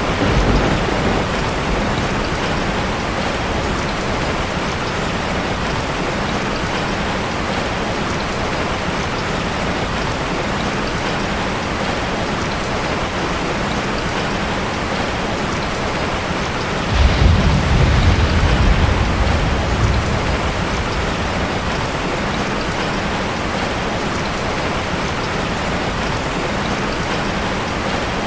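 Heavy rain falling steadily, with a low roll of thunder that starts suddenly about two-thirds of the way through and lasts about three seconds, and a shorter low rumble at the very start.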